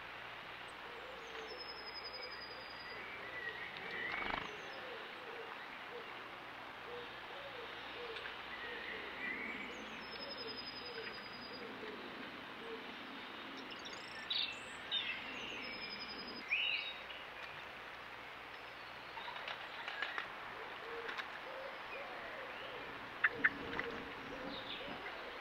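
Outdoor birdsong: a low call repeated over and over, with higher chirps from small birds now and then. Two sharp ticks come close together near the end.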